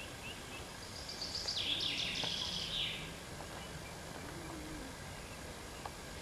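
A songbird sings one short phrase of quick notes that step down in pitch, about a second in, over steady background noise.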